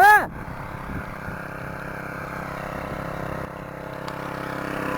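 Motoblock (walk-behind tractor) engine running steadily, growing gradually louder toward the end.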